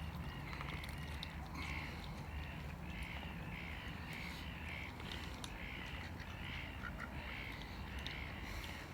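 A bird calling over and over in a steady series of short calls, about two a second, with a few faint clicks among them and a low steady rumble underneath.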